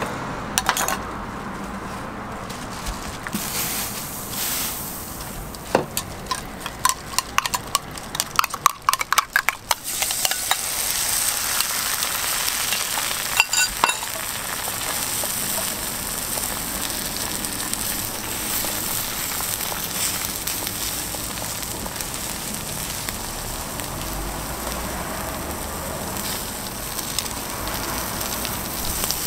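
A run of quick clicks and taps for the first ten seconds. Then a beaten egg and shredded cabbage mixture sizzles steadily on an oiled flat-top griddle, with a couple more clicks a few seconds after the sizzling starts.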